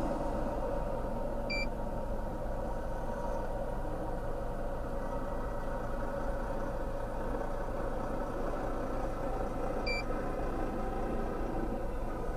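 Steady running of a motor vehicle's engine, a constant rumble. Two short high beeps sound about eight seconds apart.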